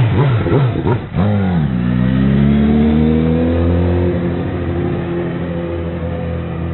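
Motorcycle engine revving: quick throttle blips in the first second, a sharp dip about a second in, then a long climb in pitch as it pulls away, settling into a steady note.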